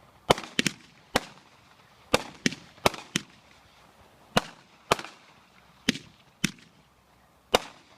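Consumer fireworks going off: about a dozen sharp bangs at uneven spacing, some in quick pairs, each followed by a short fading echo.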